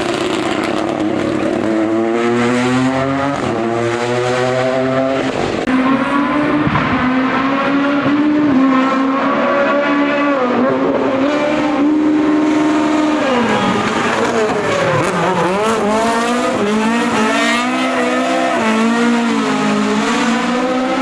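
Racing car engine at full throttle, its pitch climbing in quick steps through upshifts, then falling as it slows for a bend about two-thirds of the way in and rising again as it accelerates away.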